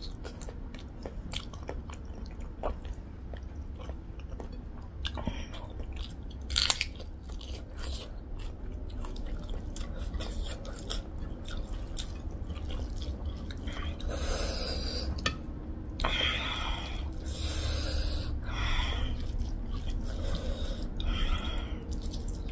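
Close-up chewing and smacking of pork-trotter pickle and rice eaten by hand, with many short wet mouth clicks and denser bursts of chewing from about two-thirds of the way in.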